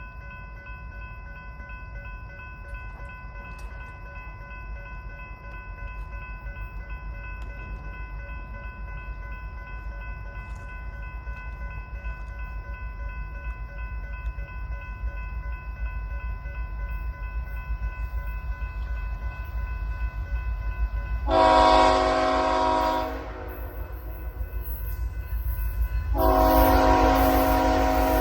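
Locomotive air horn sounding a chord twice: one blast of about two seconds roughly three-quarters of the way through, and another starting near the end and still sounding. Underneath is the low rumble of a train that grows louder, and before the horn a faint steady high tone.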